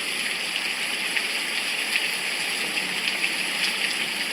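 Steady rain: an even hiss with many small scattered drop ticks.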